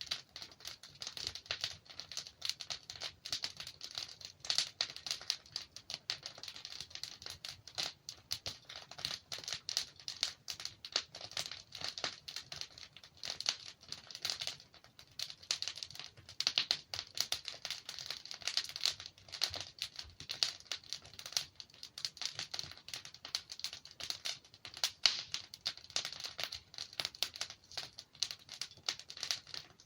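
Logs burning in a fireplace, crackling continuously: a dense run of small sharp snaps with louder pops scattered through.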